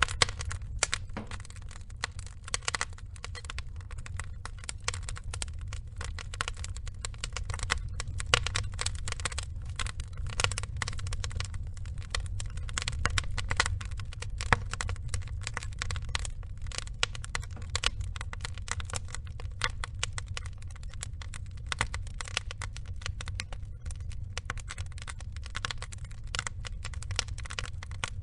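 Wood logs burning in a fire, crackling and popping in dense, irregular snaps over a steady low rumble.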